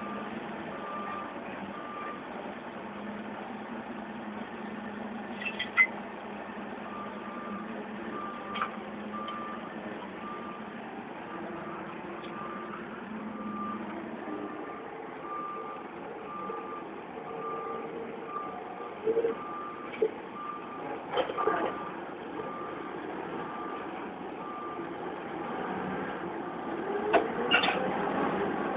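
A forklift's reversing alarm beeping steadily, a little under two beeps a second, over a diesel engine running. The beeping pauses for a few seconds early on, and a few sharp knocks come through, the loudest near the end.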